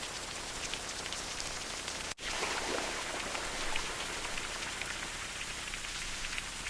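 Steady rain, an even hiss of rainfall dotted with many small drop ticks. About two seconds in, the sound cuts out for an instant and resumes on a slightly different stretch of rain.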